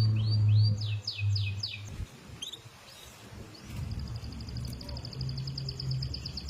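F1 domestic canary singing: a run of quick falling whistled notes, a short pause, then a fast, even high trill about four seconds in. A low hum runs underneath at times.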